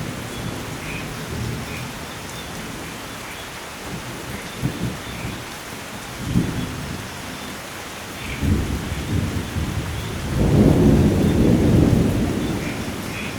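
Steady rainfall with rolling thunder: low rumbles swell a few times, the loudest and longest coming about ten seconds in and lasting around two seconds.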